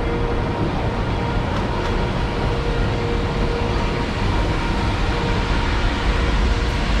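Narrow-gauge train rolling along the track, heard from an open passenger car: a steady rumble of wheels on rails with a faint steady whine.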